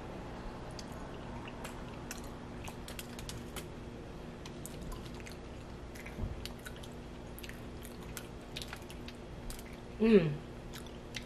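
Close-miked eating sounds from spoonfuls of baked beans and mac and cheese: soft chewing, lip smacks and small scattered clicks over a faint steady hum. Near the end comes a short hummed 'mmm' that falls in pitch, the loudest sound.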